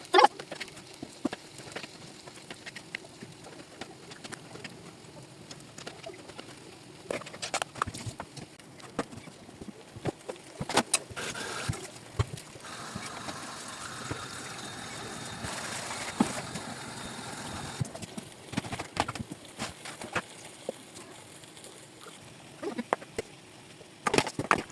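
Kitchen handling sounds: scattered clicks and knocks of dishes and utensils, with a steady hiss for about five seconds near the middle.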